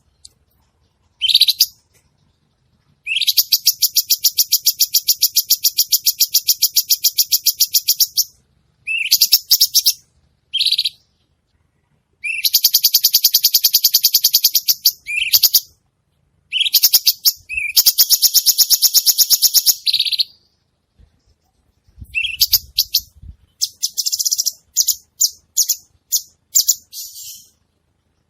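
Cucak cungkok songbird singing in full voice. It gives long, very high, rapid trills lasting several seconds each, broken by short chirps and pauses, and a run of short quick phrases near the end.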